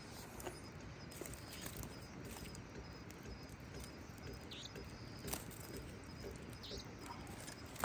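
Faint outdoor ambience: a steady rushing hiss with scattered small clicks and snaps, a sharper click near the end, and a couple of brief high chirps.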